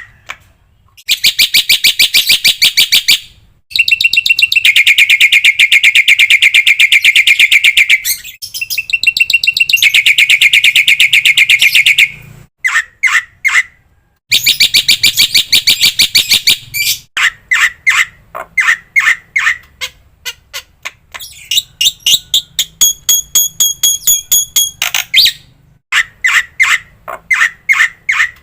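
Black-winged myna (jalak putih) song: long, very fast rattling trills lasting several seconds each, then strings of separate sharp chirps, with a few seconds of a steady clear whistle in the later part.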